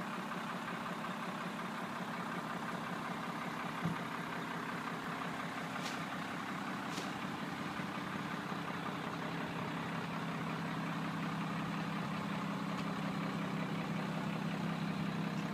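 1991 Ford F600 truck engine idling steadily, with a single short knock about four seconds in.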